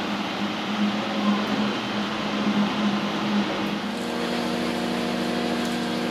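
Diesel railcar of the Ibara Railway running along the line: a rushing wheel-and-track noise with a wavering hum. About four seconds in it gives way to a steadier engine drone with several held tones, heard inside the car by the driver's cab.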